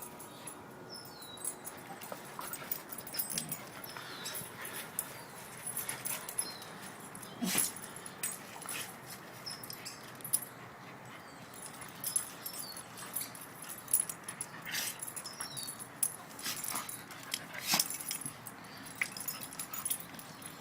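Dogs at play, one mouthing at the other's face: irregular short sneezes and snorts, with brief high squeaks and whimpers in between. The sneezing is typical of dog play.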